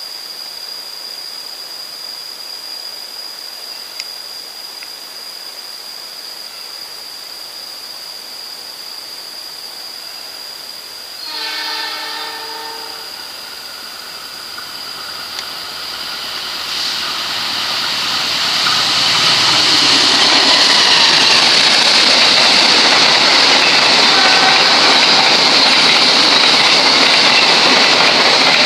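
Diesel locomotive sounds one horn blast of a little under two seconds, about 11 seconds in. Then the diesel-hauled passenger train approaches and passes at speed. The locomotive and the wheels on the rails build to a loud, steady roar from about 19 seconds on.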